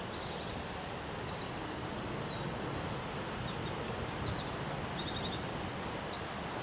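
Songbirds singing: scattered runs of short, high, falling chirps over a steady background hiss.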